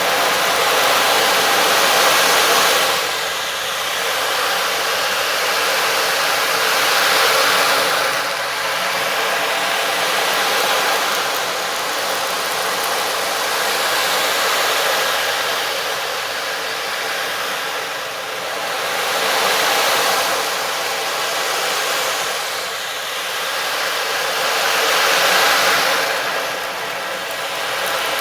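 Sound-healing instrument giving a loud rushing wash of noise, like surf, that swells and fades in slow waves every few seconds, with faint steady tones underneath.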